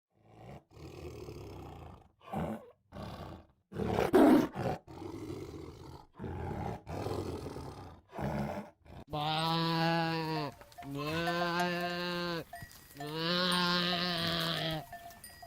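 Tiger growling and roaring in a string of short, rough calls, the loudest about four seconds in. From about nine seconds, a goat bleats three times, each call long and wavering.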